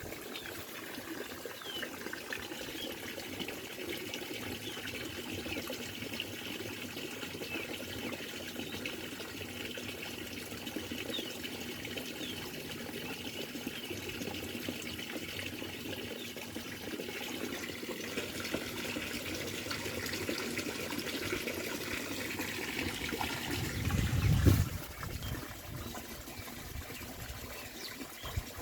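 Water running down a fish ladder, a steady trickling flow, with faint high chirps over it. Near the end a brief low rumble is the loudest moment.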